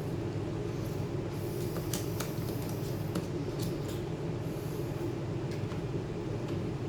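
A steady low hum with a handful of small, sharp clicks and taps between about two and four seconds in, like small hard parts being handled.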